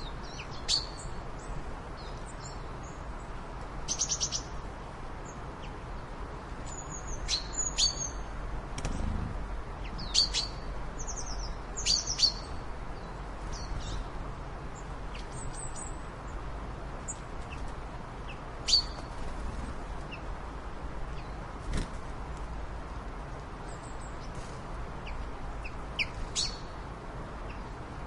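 Birds chirping in short, high calls and brief trills, scattered through the whole stretch, over a steady background hiss.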